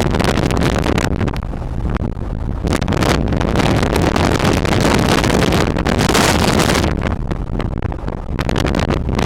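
Loud wind buffeting the microphone in uneven gusts, over a steady low rumble.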